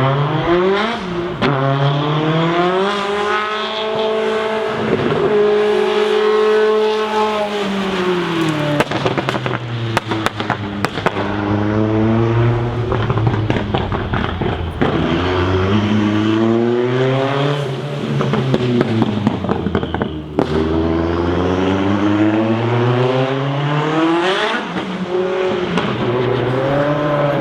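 Sports car engine revving several times, its pitch climbing, holding and falling again, with a burst of sharp crackles about a third of the way through.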